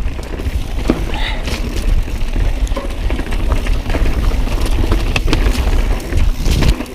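Mountain bike riding through a rock garden: a steady low rumble of tyres and air on the camera microphone, broken by frequent sharp clacks and rattles as the bike hits rocks.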